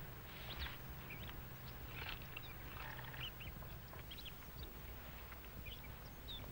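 Faint, scattered short high chirps from birds, rising or falling, over a low background hum.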